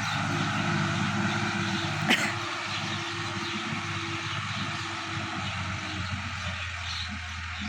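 Sonalika DI-50 RX tractor's diesel engine running steadily, with a single sharp click about two seconds in.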